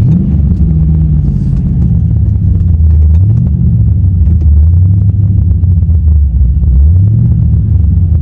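Infiniti G35's 3.5-litre V6 engine running under way, a deep low drone heard from inside the car, its pitch climbing at the start, about three seconds in and again near seven seconds as the car accelerates.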